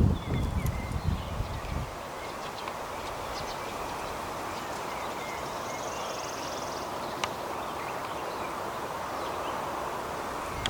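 Steady rain falling, an even hiss, with wind rumbling on the microphone for about the first two seconds and a few faint chirps.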